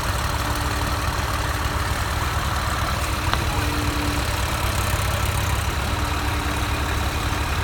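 Tractor diesel engine running steadily with a low, even chugging.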